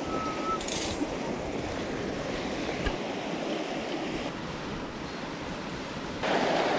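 Mountain stream water rushing steadily, dropping slightly about four seconds in and growing louder again near the end.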